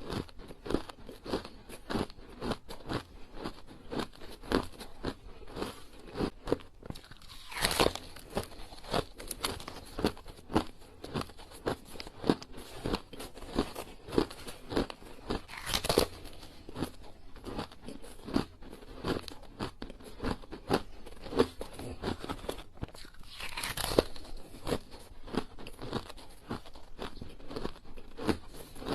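Small hard ice cubes crunched between the teeth close to the microphone: a steady run of sharp crunches about two a second, with three louder bites spaced about eight seconds apart.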